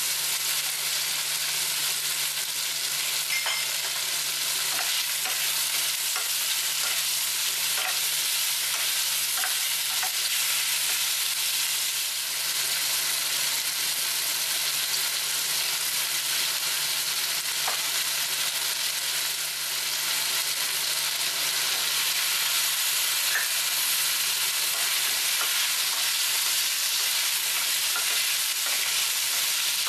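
Chicken pieces and garlic frying in sesame oil in a stainless steel saucepan: a steady high sizzle with scattered small pops and crackles, over a low steady hum.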